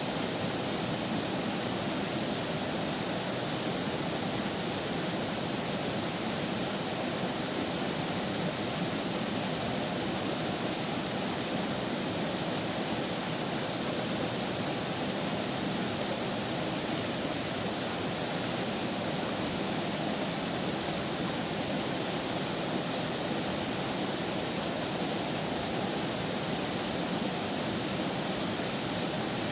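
River water flowing steadily, a constant even rush of running water.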